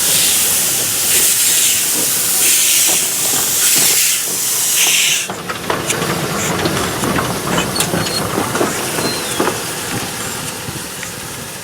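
Steam locomotive letting out loud hissing steam in repeated pulses, a little under one a second, which cuts off about five seconds in. After that come quieter scattered clicks and clattering.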